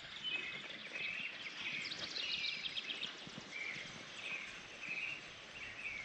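Songbirds calling in short, repeated phrases over a faint steady background noise.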